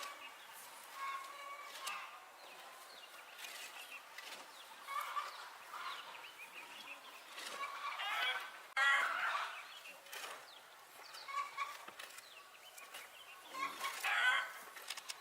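Chickens clucking, a string of short calls with louder ones about nine and fourteen seconds in.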